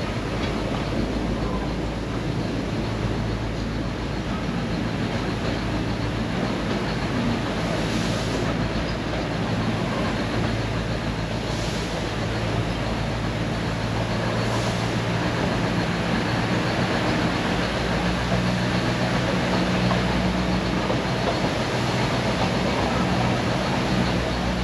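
Neral–Matheran narrow-gauge toy train running along its hillside track, heard from an open coach window: a steady running noise with a low hum that grows a little stronger in the second half.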